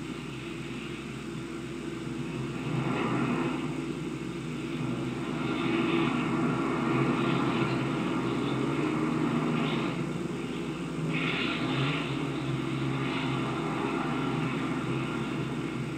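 Twin piston engines of a propeller airliner running as the plane is brought up to the gate, a steady rumble that swells and eases a few times. Heard through an old optical film soundtrack with hiss and hum.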